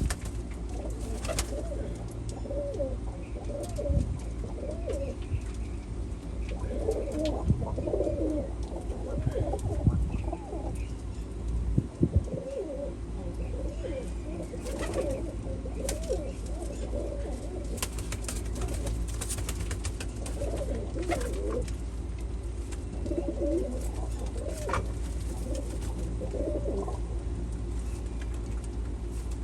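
Domestic pigeons cooing over and over, with calls from several birds overlapping, above a steady low hum and a few scattered clicks.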